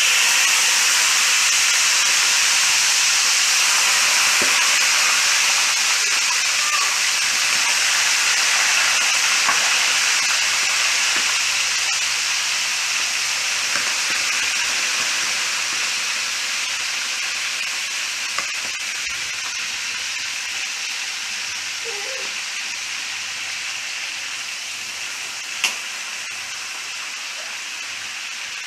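Spiced waterhen pieces deep-frying in hot oil: a loud sizzle that starts suddenly and slowly dies down, with a couple of sharp pops near the end.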